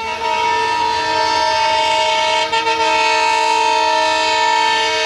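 Locomotive horn of the Silkcity Express blowing one long, steady blast of several tones at once, over the running noise of the train.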